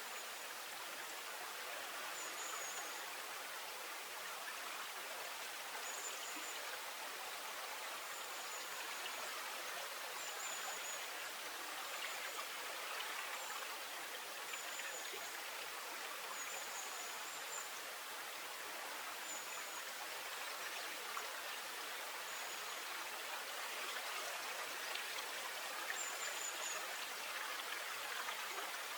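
Steady rush of flowing stream water, with faint, short, high chirps recurring every second or two.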